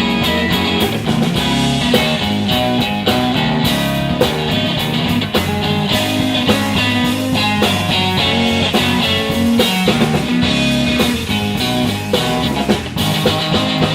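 A live blues band trio playing an instrumental passage with no vocals: guitar lines over bass and a drum kit keeping a steady beat.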